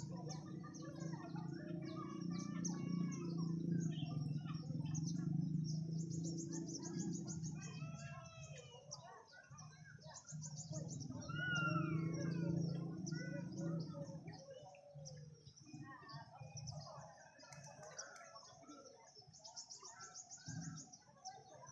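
Several birds chirping and calling in short rising and falling notes, with fast high trills repeating throughout. A low steady hum underneath swells twice and fades near the end.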